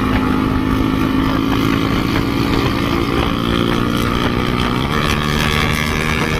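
Yamaha MT-15's 155 cc single-cylinder engine accelerating, heard from the rider's seat, with an upshift from third to fourth gear about five seconds in.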